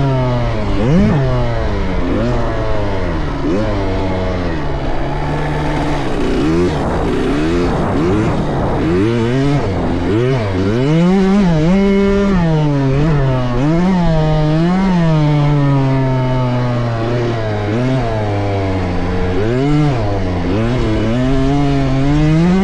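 Motocross dirt bike engines revving, their pitch climbing and dropping again and again as the throttle is opened and closed through the track sections. For a few seconds near the middle, more than one bike is heard at once.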